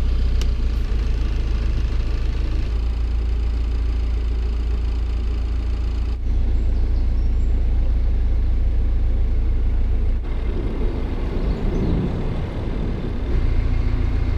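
Narrowboat engine running steadily as the boat cruises along the canal. For about three seconds near the end the steady low hum gives way to a rougher, uneven sound, then comes back.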